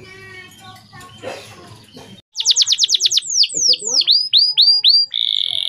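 Male canary singing: after about two seconds of fainter background sound, the song starts abruptly. It opens with a fast trill of downward-sweeping notes, moves to slower falling whistles, and ends on a long held buzzy note.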